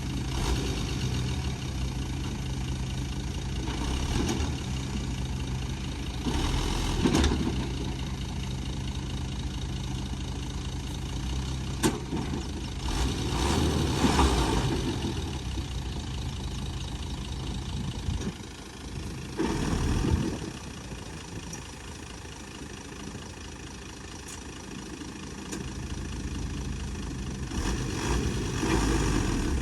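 Diesel engine of heavy earthmoving equipment running steadily, with several louder surges as it works, easing off for a few seconds past the middle and picking up again near the end.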